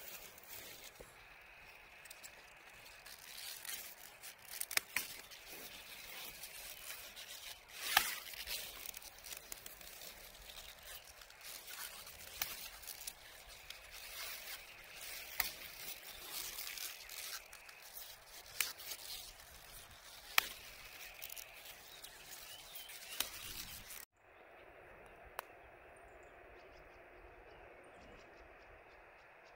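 Wood bonfire crackling, with irregular sharp pops and snaps over a steady hiss; it cuts off suddenly about 24 seconds in, leaving a quiet steady background.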